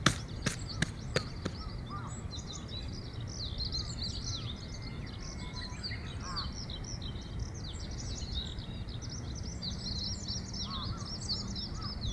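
Many small birds chirping and twittering in a dense, continuous chorus over a steady low outdoor rumble. Four sharp clicks or knocks come in the first second and a half.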